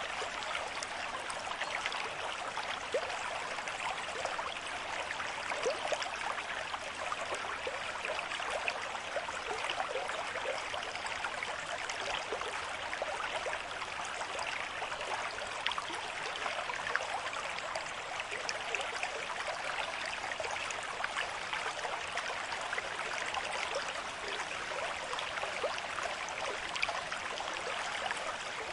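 River stream flowing at a moderate rate: a steady rush of water with many small splashes running through it.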